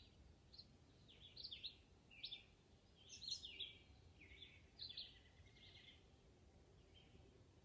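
Faint birdsong: short chirping phrases every second or so, strongest in the first six seconds and then thinning out, over quiet outdoor background noise.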